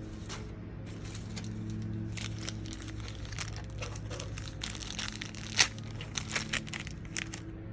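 Crinkling and rustling of cardboard and plastic packaging pieces being handled, in irregular crackles, with one sharp click about five and a half seconds in and a few smaller clicks after it.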